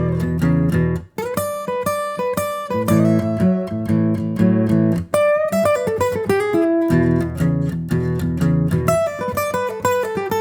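Guitar music: a steady run of plucked notes and chords, with a brief break about a second in.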